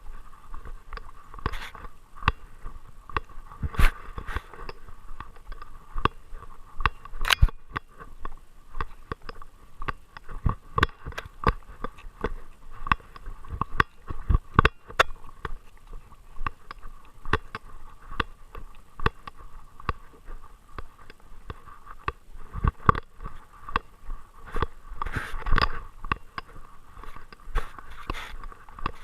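Irregular clicks, knocks and scrapes picked up by a GoPro in its housing strapped to a Great Dane, as the dog moves and the camera mount rubs and knocks. Louder clusters of knocks come a few times.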